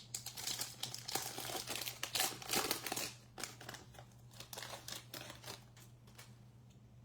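Plastic foil wrapper of a baseball trading card pack being torn open and crinkled, dense and crackly for about three seconds, then dying down to softer scattered crackles before stopping.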